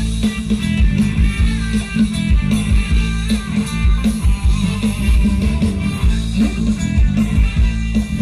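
Live Thai band music played through a rot hae sound truck's loudspeakers: electric guitar over heavy bass with a steady, pulsing beat.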